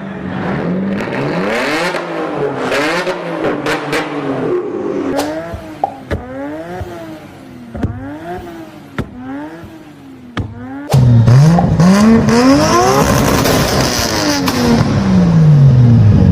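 Performance car exhaust revving up and down again and again, with sharp pops between revs. About eleven seconds in, a louder car's engine climbs steeply in pitch under hard acceleration, then winds back down.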